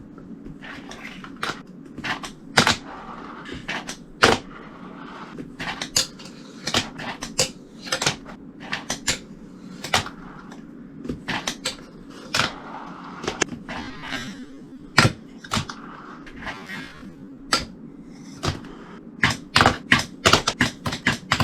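Fingerboard tricks: sharp clicks of the tail and nose popping and the board landing on a hard surface, some in quick clusters, with short stretches of the small wheels rolling between them.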